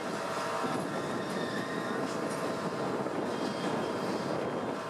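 Freight wagons of a BOXN coal train rolling past on the rails, ending with the brake van: a steady rumble and rattle of wheels and bogies, with a faint high squeal.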